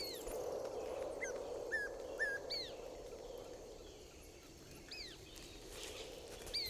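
Short, high bird calls, each sliding down in pitch, about seven of them at irregular intervals, over a steady low rushing background.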